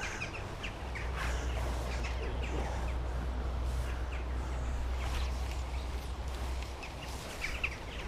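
Scattered short bird chirps over a steady low rumble and outdoor hiss.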